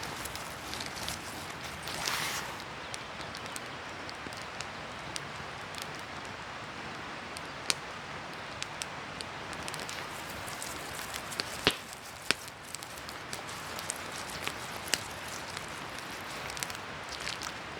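Food sizzling in the heat of a campfire: a steady frying hiss, with scattered sharp crackles and pops from the fire, a few louder ones past the middle.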